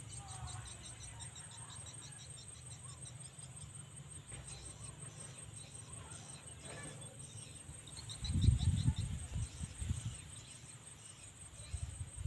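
Insects chirping steadily: a thin, high continuous trill with a fast pulsing chirp beneath it. About eight seconds in come a couple of seconds of loud, low rumbling bumps.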